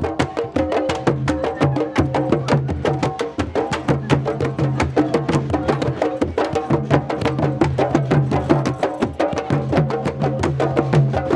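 Candombe drumming: a group of barrel drums played fast with hands and sticks, giving a dense, steady rhythm of sharp strokes over deeper ringing drum tones.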